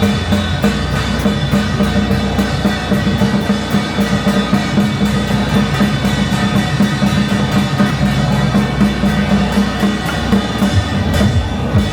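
A traditional Taiwanese procession drum-and-gong troupe (開路鼓) playing a fast, steady beat on drums, with gongs and cymbals ringing over it.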